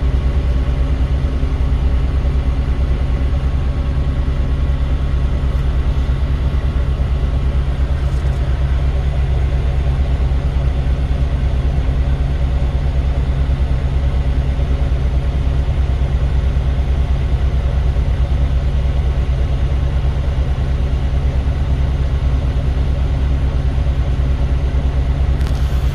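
Semi-truck's diesel engine idling steadily: a low, even drone that does not change, with faint steady whines above it.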